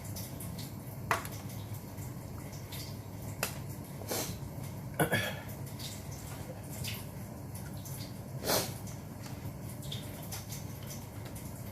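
Eating sounds: a handful of short, wet clicks and smacks from someone eating grilled chicken, spaced a second or more apart, over a steady low hum.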